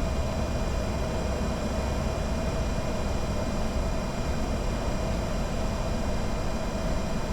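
Steady cockpit noise of a Bombardier Challenger 605 jet in descent: a constant rumble of airflow and engines, with a steady mid-pitched hum and fainter high tones running through it.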